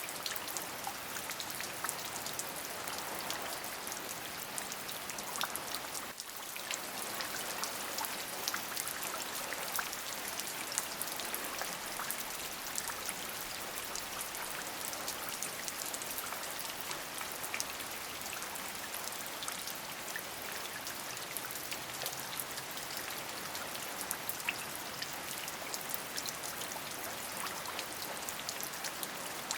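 Steady rain, an even hiss of falling water dotted with many small individual drop ticks, dipping briefly about six seconds in.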